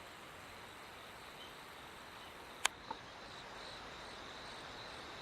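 Insects chirring steadily in a high, even tone over a faint outdoor hiss, with a sharp click about two and a half seconds in and a fainter click just after.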